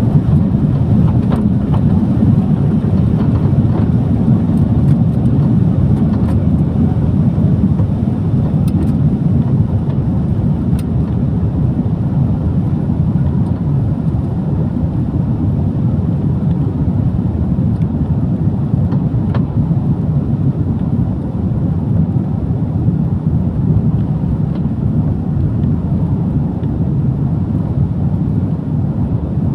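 Jet airliner heard from inside the cabin during takeoff: a loud, steady low rumble of engines and rushing air.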